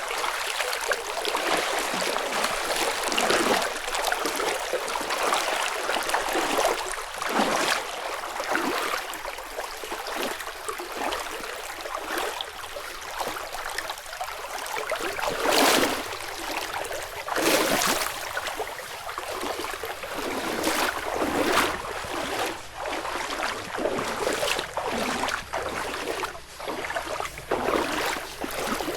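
Flowing river water rushing steadily, with brief louder swishes or crunches every few seconds.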